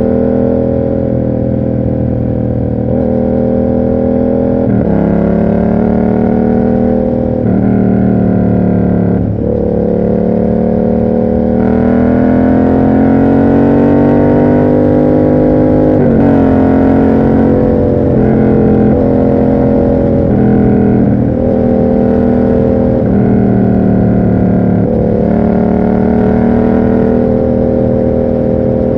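Yamaha MT-07's 689 cc parallel-twin engine through an SC Project aftermarket exhaust, under way on the road. The engine note rises and falls, with several abrupt pitch changes as the rider shifts gears.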